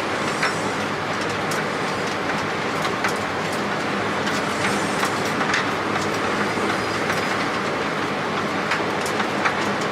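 Airliner cockpit noise on short final: a steady rush of airflow and engines with scattered sharp rattles and clicks as the aircraft is shaken in gusty wind.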